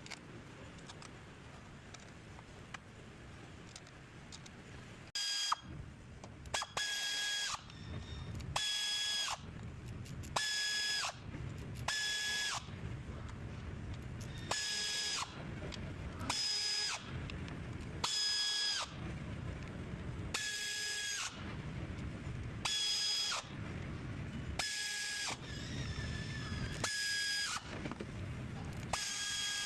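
A power tool run in repeated short bursts, one every second and a half to two seconds, starting about five seconds in. Each burst carries a steady whine that dips as it stops, over a low hum.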